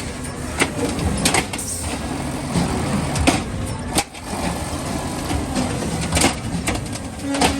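Garbage truck running, with a rough steady rumble and several sharp knocks and rattles scattered through it.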